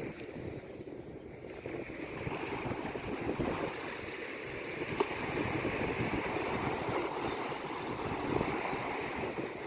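Sea waves washing in a continuous rush of surf, softer for the first couple of seconds and then swelling up.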